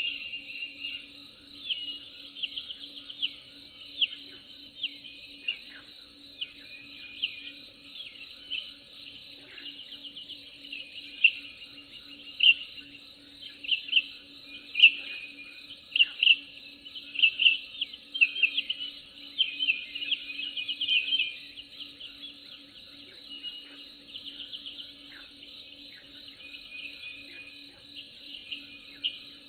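Many small birds chirping and singing in quick, overlapping bursts of high notes, over a steady low drone.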